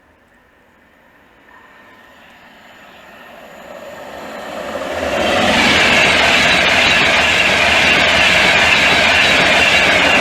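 Class 91 electric locomotive and IC225 train passing through the station at speed without stopping. The rush of wheels on rail grows from about two seconds in and stays loud and steady from about five seconds on.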